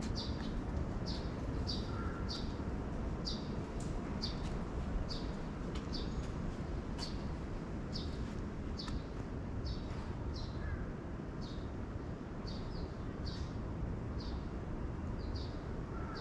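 A small bird chirping over and over, short high chirps about two a second, often in quick pairs, over a steady low background hum.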